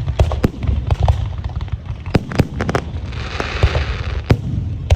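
Aerial fireworks display: a rapid, irregular series of sharp bangs over a steady low rumble of shell bursts. About three seconds in, a hissing burst lasting about a second.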